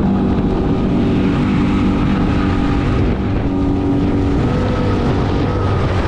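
Small boat's outboard motor running steadily under way, with wind rushing over the microphone.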